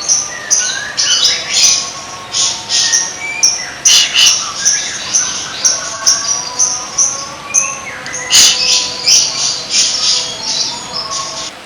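Songbird singing a fast, varied string of harsh chattering notes and short whistles.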